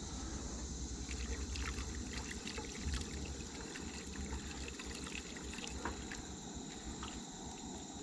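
Pork gravy mixed from a packet with water being stirred in a pan, a liquid sloshing with small clinks and scrapes, busiest in the first few seconds.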